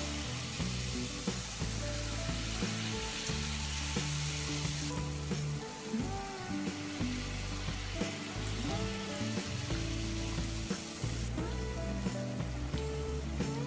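Jalebi batter sizzling in hot oil in a frying pan as spirals are piped in, a steady crackling hiss, under background music of held notes.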